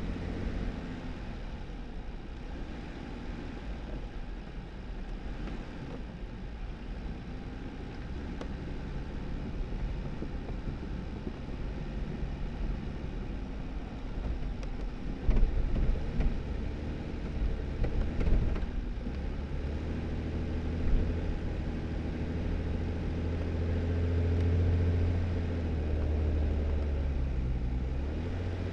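2018 Jeep Wrangler driving on a snowy dirt road: a steady low engine hum under tyre noise. A few sharp knocks come from bumps about halfway through, and the engine note swells for a few seconds near the end.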